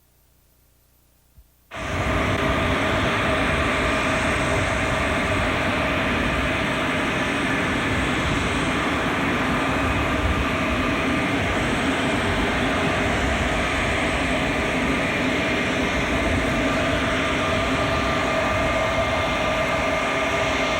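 Jet airliner engines running with a steady roar and a high whine. The sound cuts in abruptly after about two seconds of near silence and a single faint click.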